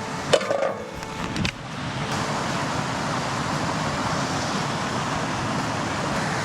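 Steady rushing of a river flowing, with a few light clicks or knocks in the first second and a half.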